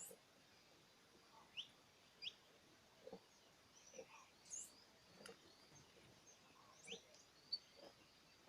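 Faint, scattered short chirps from small birds, several of them quick rising notes, mixed with a few soft low knocks.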